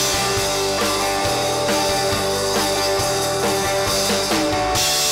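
Live country-rock band playing an instrumental passage: electric guitars holding chords over a steady drum beat, without vocals.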